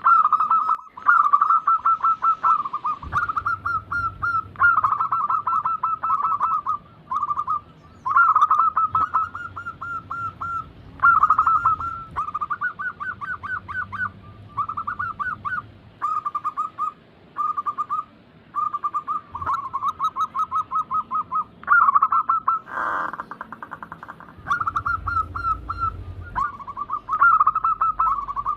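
Zebra dove (perkutut) song: bout after bout of rapid, staccato cooing notes at much the same pitch, with short pauses between phrases. There is a short noisy burst about two-thirds of the way through.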